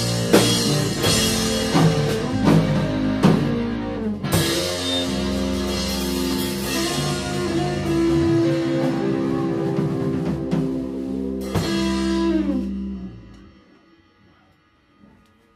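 Band with electric guitar and drum kit playing the closing bars of a song: drum hits lead into a crash on the final chord about four seconds in. The chord is held with a couple more cymbal hits, then dies away to near silence near the end.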